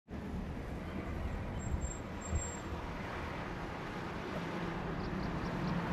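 Forest trail ambience: a steady low rumbling noise, with thin high chirps about two seconds in and four short high notes near the end.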